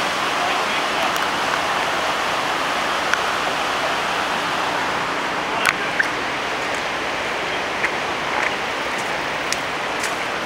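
Steady rush of running floodwater, with a few faint clicks.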